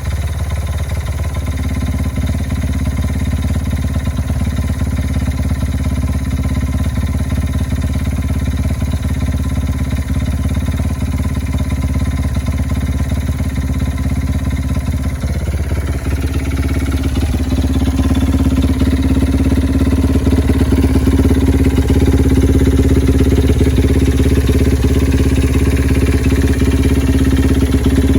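Honda NSR50 fitted with a Honda Ape 100 air-cooled four-stroke single bored to 115cc, idling steadily. About halfway through the engine note dips briefly, then settles a little higher and louder at a faster idle.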